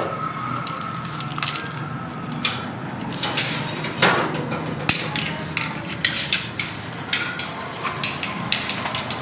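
Irregular metal clinks, taps and knocks of hand tools and engine parts being handled while a timing chain is fitted on a Honda CD 70 engine.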